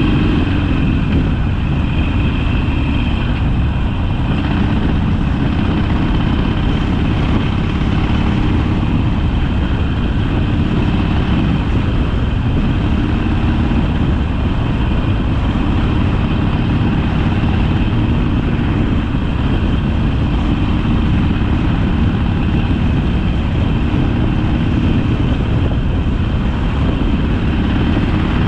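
Harley-Davidson Sportster's V-twin engine running steadily while the motorcycle is ridden.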